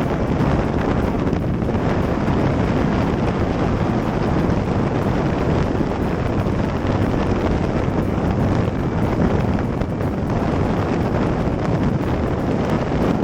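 Steady wind rush on the microphone of a moving motorcycle's camera, with the vehicle's running noise underneath.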